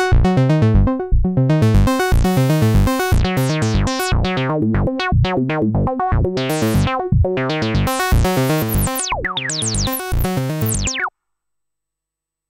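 Waldorf Iridium synthesizer with a Roland SH-101-style patch playing a fast sequence of short, plucky notes. The filter opens brighter on some notes. It stops suddenly about 11 seconds in, followed by silence.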